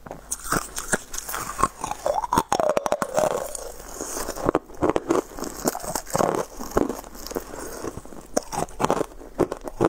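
Close-up crunching as hard frozen pieces are bitten and chewed: many sharp, irregular crunches.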